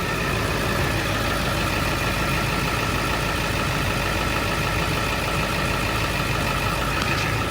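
Ford 7.3 Powerstroke V8 turbo-diesel in a 2002 F350 idling steadily, freshly restarted with new oil.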